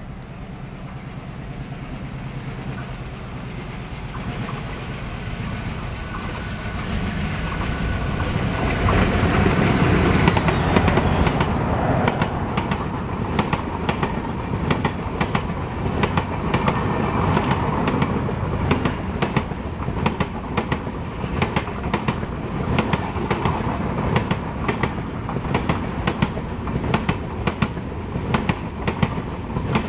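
A WDM3A ALCO diesel locomotive approaches and passes at speed. Its engine rumble grows loudest about ten seconds in, and a high whine falls in pitch as it goes by. Then the LHB coaches rush past with a steady run of rhythmic clickety-clack from the wheels over the rail joints.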